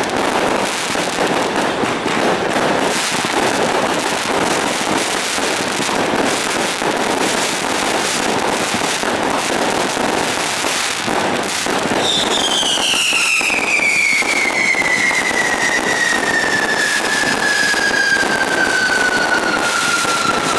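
Firecrackers and fireworks going off in a dense, unbroken crackle. About halfway through, a high whistle joins in and slowly falls in pitch.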